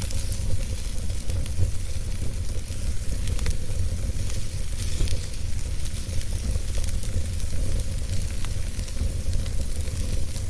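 Wood burning in a fireplace, crackling steadily with many small sharp pops over a continuous low rumble.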